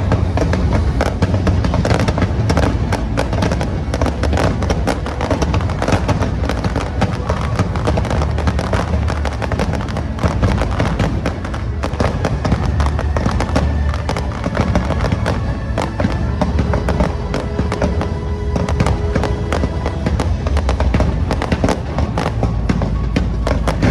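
A fireworks display: a rapid, unbroken run of bangs and crackles over loud music.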